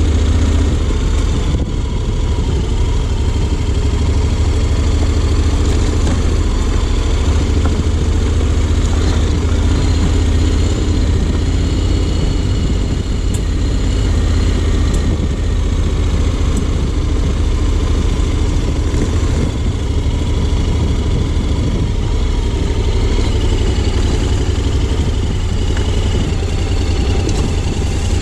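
Honda X-ADV 750's parallel-twin engine running steadily, with no clear revving.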